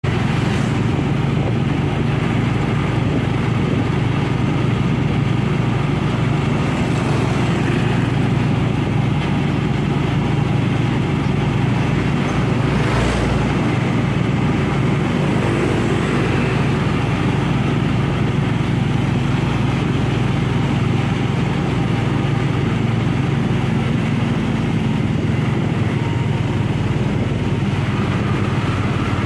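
Truck engine running steadily under load, with a brief low thump about halfway through.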